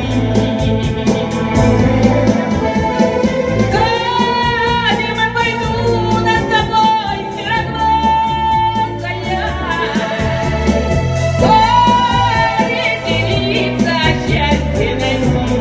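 A Romani (Gypsy) song: a singer holds long, wavering notes over a backing track with a steady beat and a bass line.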